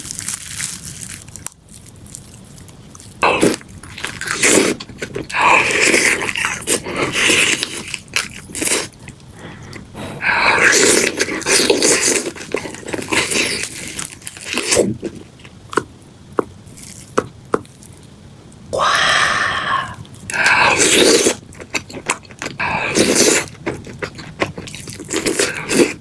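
Close-miked biting and chewing of crispy spicy fried chicken: crunching in irregular bursts, with several louder bites through the coating.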